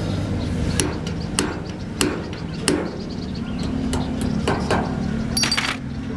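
Irregular hammer blows on metal, about ten sharp strikes spread unevenly, with a brief ringing clink near the end. A steady low hum runs underneath.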